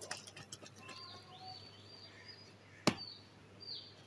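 A series of high, thin chirps, each rising, holding briefly and falling, like a small bird calling, with a few light clicks and one sharp click nearly three seconds in.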